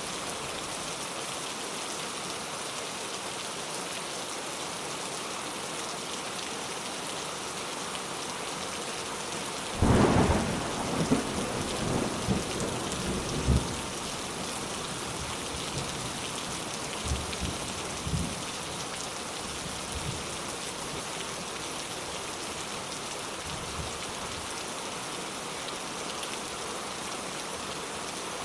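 Steady rain falling, with a sudden clap of thunder about ten seconds in that rumbles and cracks for a few seconds, followed by a couple of fainter rumbles.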